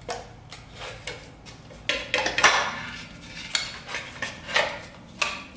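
Metal engine parts clinking and clanking as they are handled during an engine teardown: a run of irregular sharp metal strikes with some ringing, the loudest about two and a half seconds in.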